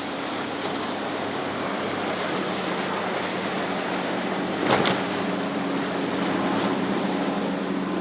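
Hydra-Sports center-console boat running through the inlet: rushing water and wind over a faint, steady outboard engine hum, with one splash about five seconds in.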